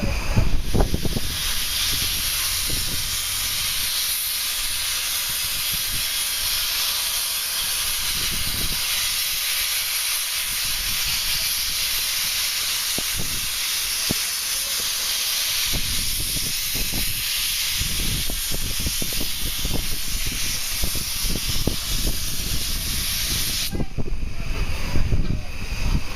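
Miniature steam locomotive letting off steam in a loud, steady hiss that cuts off suddenly near the end, with irregular low rumbles underneath.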